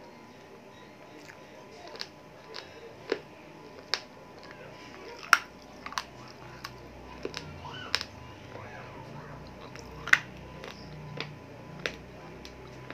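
Close-miked chewing of chicken with sharp, wet mouth smacks and clicks every second or so as fingers are sucked clean.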